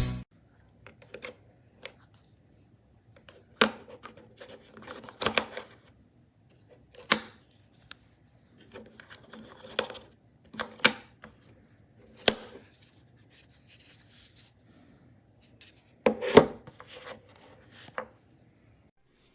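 Handling noise: scattered sharp clicks and knocks with light rubbing and scraping between them, about a dozen in all, the loudest a pair of knocks near the end.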